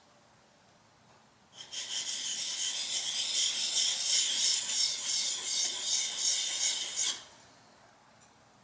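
A plane blade rubbed back and forth on a sharpening stone in quick, even strokes, honing the edge. The strokes start about a second and a half in and stop about two seconds before the end.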